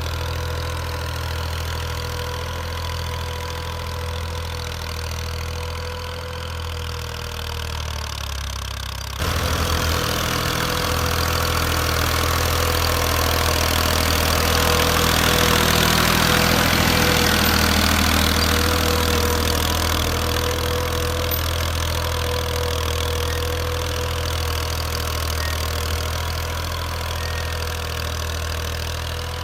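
Massey Ferguson 240 tractor's diesel engine running steadily at idle, with a thin steady whine over its low drone. About nine seconds in, the sound suddenly gets louder and fuller, swells for several seconds, then eases back.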